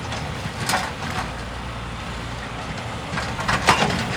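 Excavator's diesel engine running steadily at a low rumble, with a few short knocks or scrapes.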